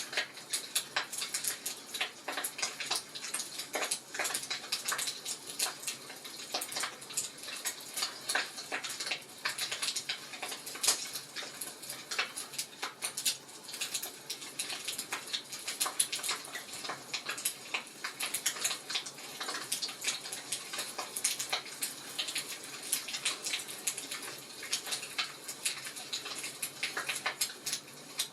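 Wood fire crackling steadily, with dense irregular snaps and pops.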